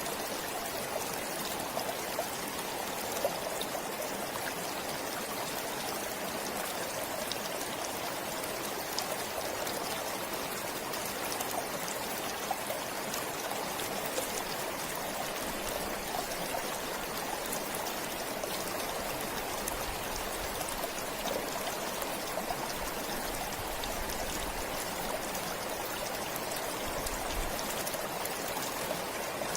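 Forest stream flowing steadily, a continuous rush of running water with fine trickling and splashing.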